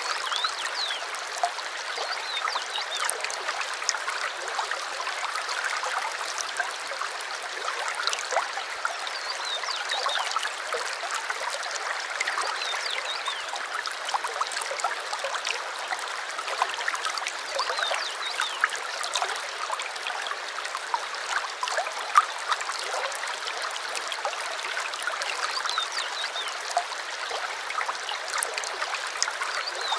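A small stream trickling and babbling steadily over stones, with occasional short, faint bird chirps above the water.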